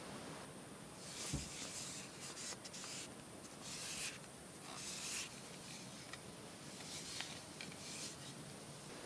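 Intermittent rustling and rubbing, like things being handled or shifted, in several short bouts, with a soft thump about a second and a half in, over a steady hiss.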